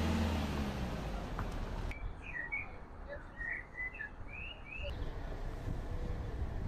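Small birds chirping, a quick run of short high notes lasting about three seconds, starting and stopping abruptly. Before it, a low traffic hum fades away, and after it there is only faint outdoor hiss.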